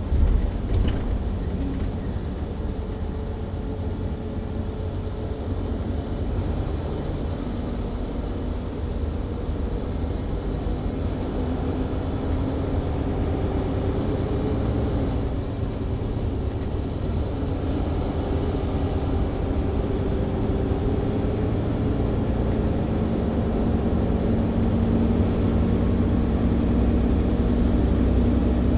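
Mercedes-Benz Citaro C2 LE hybrid bus engine and Voith automatic gearbox heard from on board while driving, with a steady engine drone and road rumble. The engine note rises gradually over the second half as the bus picks up speed, with a few short rattling clicks.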